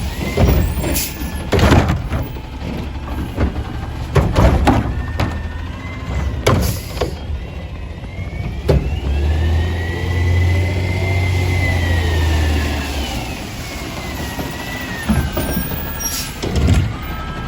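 Garbage truck working its can-and-arm lifting gear: a series of clanks and bangs. From about nine seconds the engine is held up for roughly four seconds under a rising and falling hydraulic whine as the arm cycles.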